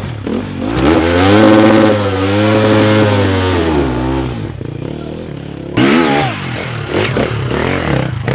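Dirt bike engine revving hard: the pitch climbs about half a second in, holds high for a few seconds and drops away, then a second sharp burst of throttle comes near the end.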